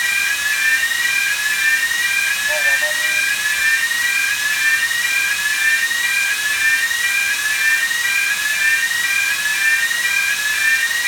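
An alarm sounding a repeating rising tone about once a second, over a loud steady rush of air and machinery noise.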